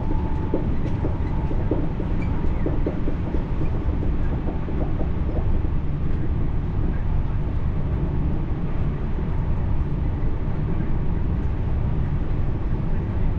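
French TER regional train running along the track with a steady low rumble. Short clicks and squeaks come through during the first five seconds or so.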